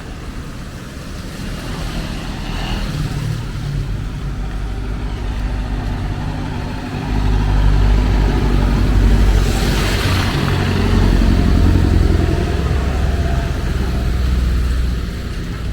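A motor vehicle passes close by, its engine growing louder from about seven seconds in and easing off near the end, with a brief hiss at its closest about ten seconds in.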